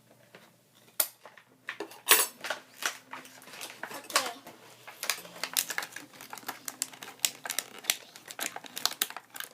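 Stiff plastic toy packaging being prised and pulled open by hand: a rapid run of sharp clicks, snaps and crinkles, with a few louder snaps about one, two and four seconds in.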